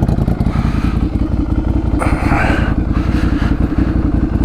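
Ducati motorcycle engine running steadily at idle, a fast even pulsing of firing strokes.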